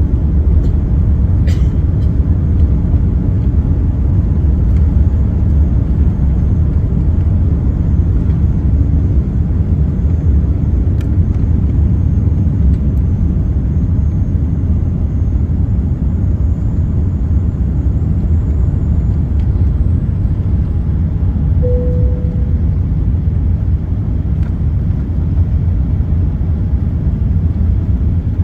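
Steady low rumble inside an Airbus A380 cabin: the engines and rushing airflow of the airliner after takeoff, even in level throughout.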